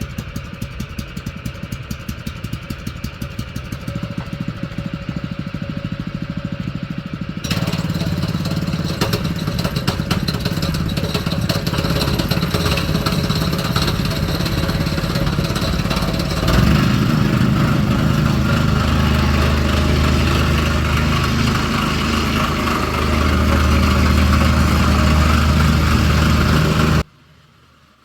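An engine running, stepping up in speed and loudness about seven seconds in and again about sixteen seconds in, then cutting off abruptly near the end.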